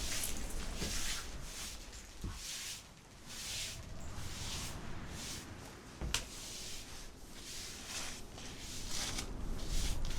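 Footsteps crunching in snow, about one step a second, with a sharp click about six seconds in.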